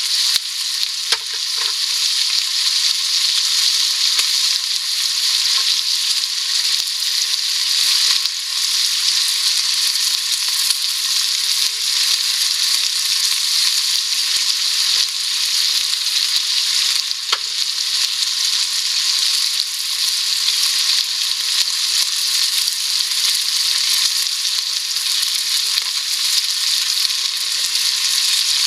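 Food sizzling in a pan: a steady frying hiss with a couple of sharp pops.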